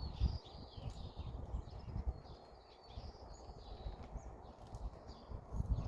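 Several wild birds chirping and calling in a yard, many short overlapping calls. Irregular low thumps run underneath, loudest near the start and near the end.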